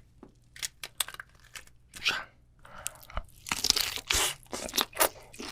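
A king tiger prawn's shell cracking and crunching as its head is pulled off, in a run of sharp clicks and crackles that are densest about three and a half to four seconds in.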